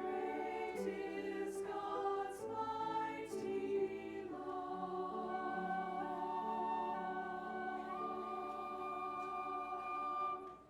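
Choir singing with accompaniment, moving through a few chords and then holding a long final chord that stops abruptly just before the end.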